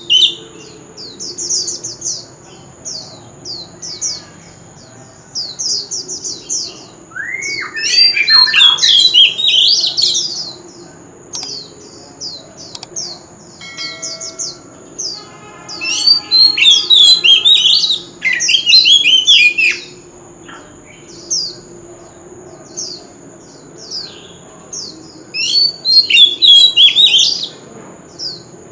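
Oriental magpie-robin singing: loud, varied whistled phrases in three bursts, about eight, seventeen and twenty-six seconds in, with quieter runs of short, high repeated notes between them.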